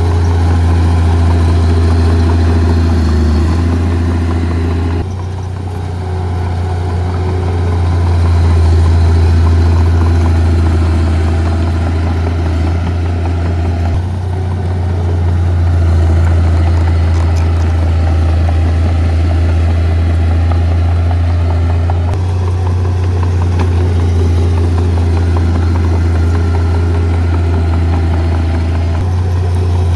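Diesel engine of heavy earthmoving equipment running, a steady deep drone that dips briefly about five seconds in and again about fourteen seconds in.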